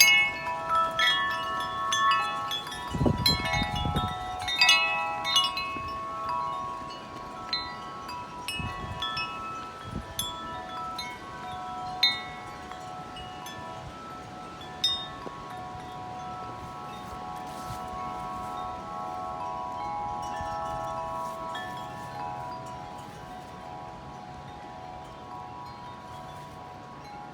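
Large tubular metal wind chime struck by gusting wind: a flurry of strikes in the first few seconds, then fewer strikes while the long, overlapping tones keep ringing. A gust buffets the microphone about three seconds in.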